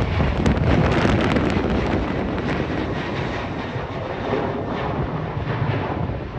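Boeing 737 jet engines, a steady rushing roar that slowly fades, with wind buffeting the microphone.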